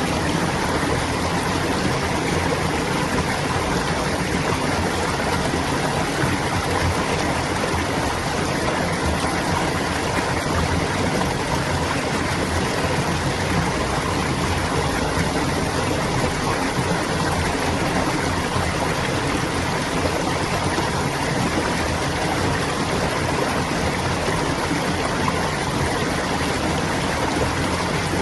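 Clear water babbling as it flows along a stream, a steady, unchanging rush.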